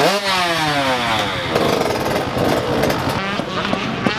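Motocross dirt bike engine revving up sharply, then falling in pitch over about a second and a half, with other bike engines running underneath.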